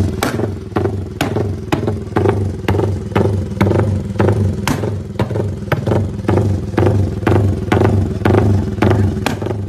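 Yamaha MX King motorcycle's single-cylinder four-stroke engine, bored up to about 200cc, running with its sound pulsing about twice a second, with a sharp click in each pulse.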